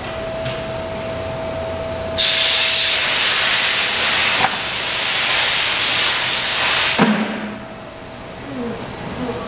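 A loud rushing hiss starts abruptly about two seconds in and cuts off with a knock some five seconds later, over a steady high-pitched hum.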